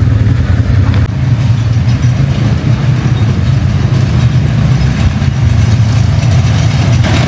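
ATV engine running steadily under way, a loud continuous low rumble.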